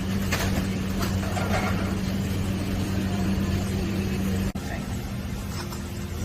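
Steady low mechanical hum, like a motor or fan running, with a few light clicks early on. The sound dips sharply about four and a half seconds in and then carries on slightly quieter.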